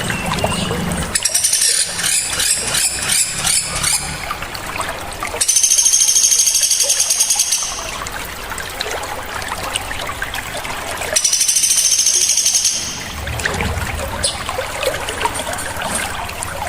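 Small songbirds singing on a bird-tutoring track: a rapid run of sharp repeated notes near the start, then two loud, shrill trilling phrases of about two seconds each, with scattered chips in between.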